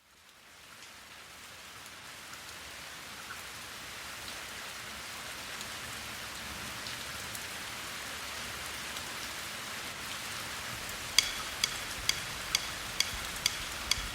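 Steady rain falling, a soft hiss that fades in over the first few seconds and slowly grows. About eleven seconds in, sharp evenly spaced clicks start, about two a second, keeping time as a lead-in to the song's beat.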